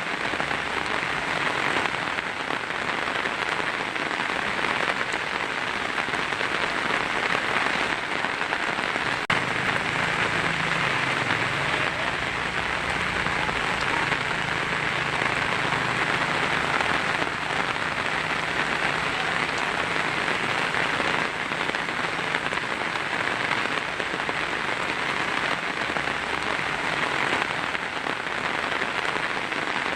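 Heavy rain drumming steadily on a tin roof, with a low rumble of distant thunder from about nine seconds in until about twenty seconds.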